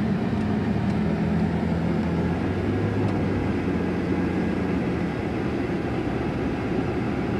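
Engine and road noise heard from inside a moving vehicle, a steady rumble with a low engine hum that shifts a little in pitch.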